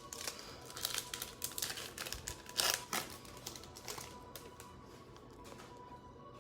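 Plastic wrapper of a Mosaic football card pack being torn open and handled, a dense run of crinkling crackles that dies down after about four and a half seconds.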